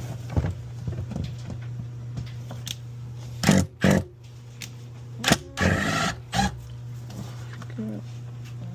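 Hand tools knocking and scraping on metal while working at rusted bolts, with a few sharp clanks about three and a half seconds in and a clattering rattle about six seconds in, over a steady low hum.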